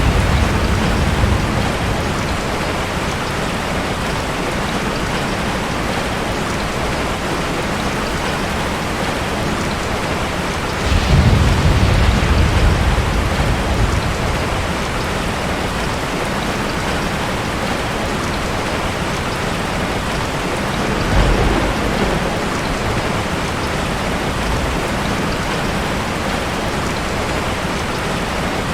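Steady heavy rain with rumbles of thunder: one at the start, a longer one about eleven seconds in, and a shorter one a little past twenty seconds.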